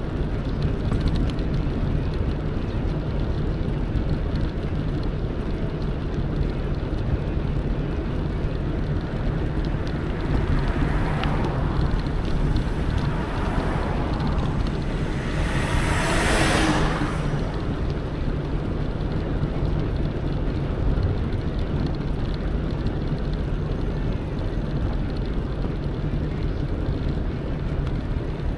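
A steady rumble of wind on the microphone and tyre noise from an electric mountain bike riding along a forest road. A brief hiss swells over it a little past halfway.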